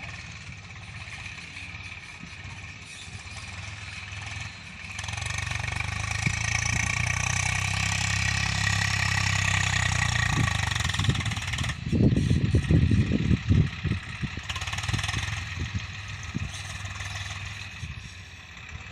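Swaraj 733 FE tractor's three-cylinder diesel engine running, growing louder about five seconds in as it is revved. Loud, irregular clattering knocks come a little past the middle, then the engine settles back.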